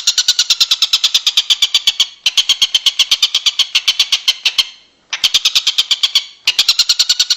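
Songbird tutor recording: a rapid, evenly repeated ticking chatter of about nine sharp notes a second, in long runs broken by brief pauses.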